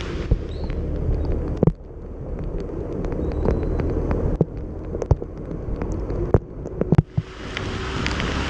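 Motorcycle riding in heavy rain: a steady low engine and wind rumble on the microphone, broken by many sharp pops and clicks. A wet hiss rises near the end.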